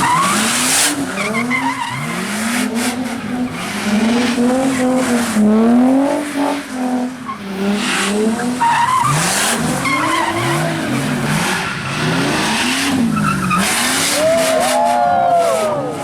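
Car engine revving up and down over and over as the car spins donuts, with its tyres spinning and skidding on wet pavement. A brief tyre squeal comes near the end.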